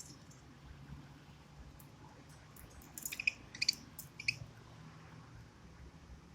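Budgerigars giving a quick run of four or five short, high chirps about three seconds in, over a low steady hum.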